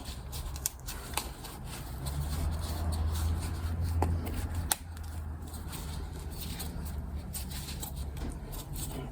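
Hands pressing and smoothing a new wick into a kerosene heater's wick holder: a rustling, rubbing handling noise with scattered light clicks. A low steady hum runs underneath and grows louder for a few seconds in the middle.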